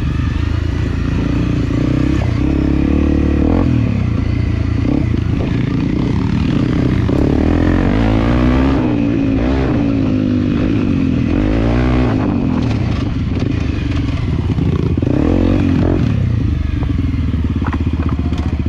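Off-road enduro motorcycle engine running at low speed, its revs rising and falling over and over, with some clatter.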